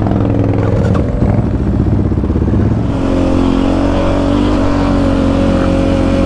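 Quad (ATV) engine running hard under throttle, its pitch uneven at first, then held steady from about halfway through.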